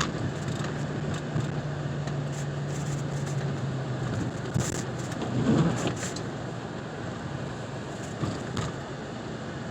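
A car being driven: steady engine and road noise, with a low engine hum that fades out about four seconds in and a few short clicks scattered through.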